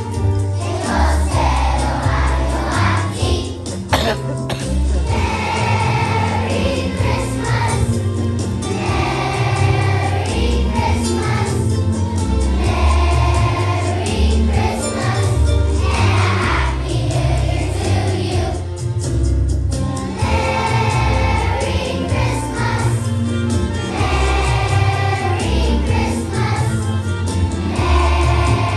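A choir of children singing a Christmas song in unison over an instrumental accompaniment with a steady, pulsing bass.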